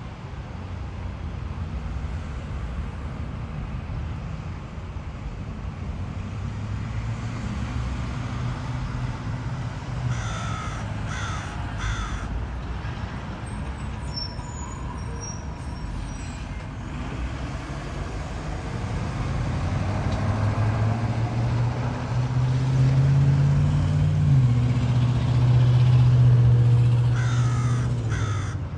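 A crow cawing three times in quick succession about ten seconds in, and again near the end. Underneath runs a low, steady engine hum that swells to become the loudest sound in the last several seconds.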